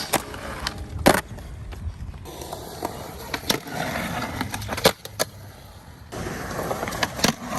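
Skateboard wheels rolling on pavement, broken by several sharp clacks of the board popping and landing.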